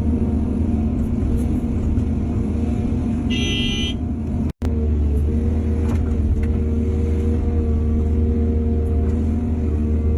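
Heavy diesel machinery running steadily with a low, even engine drone. A brief high-pitched tone sounds about three seconds in, and the sound cuts out for a split second just after.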